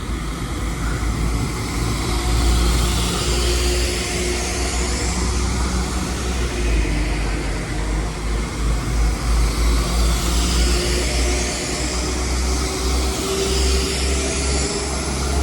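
Diesel multiple-unit train engines running at a station: a deep steady rumble with a faint whine that rises slowly in pitch in the second half.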